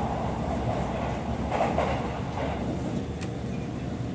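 Aichi Loop Railway local train running, a steady low rumble of wheels on track, with a short swell of noise about one and a half seconds in and a single sharp click a little after three seconds.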